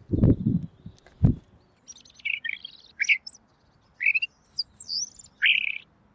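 Pekin robin (red-billed leiothrix) singing: a string of short, clear, varied whistled phrases that slide up and down, starting about two seconds in. A few low thuds come first.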